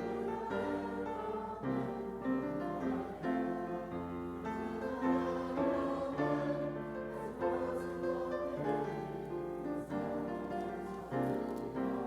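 Instrumental music led by piano, with held chords and a melody moving note by note at a moderate pace.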